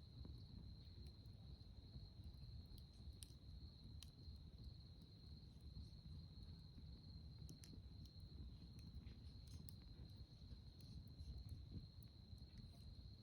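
Night insects trilling faintly on one steady high note, with scattered small pops and crackles from a wood campfire and a low background rumble.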